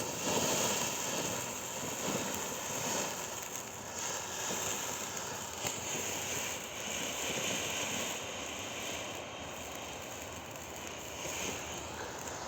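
Emerald Fire Fountain firework fountain spraying sparks with a steady hiss that comes up strongly at the start and eases off a little toward the end.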